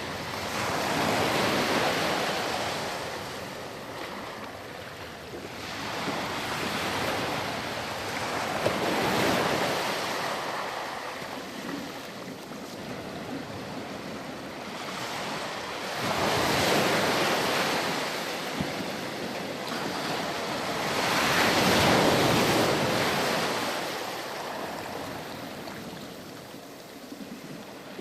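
Ocean waves breaking and washing up a sandy beach, surging and receding in slow swells every several seconds.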